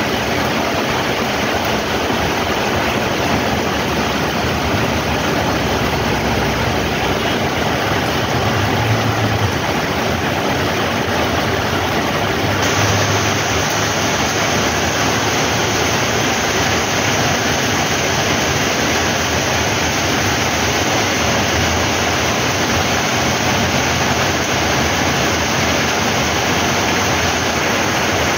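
Heavy rain pouring onto a paved street: a steady, even rush of falling rain, turning a little sharper about halfway through.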